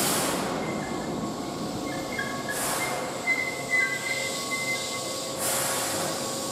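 Keihan 1000-series electric commuter train standing at the platform with a steady hum, three short sharp hisses about two and a half seconds apart, and faint thin high squealing tones in the middle.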